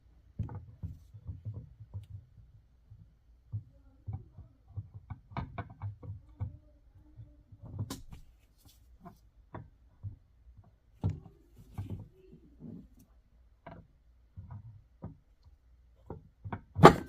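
Scattered light knocks and clicks of tools and engine parts being handled during reassembly of an ATV engine, with a sharper, louder click near the end.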